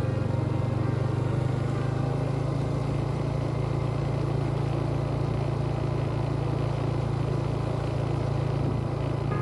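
Motorcycle engine running at a steady speed while riding, a low, even hum.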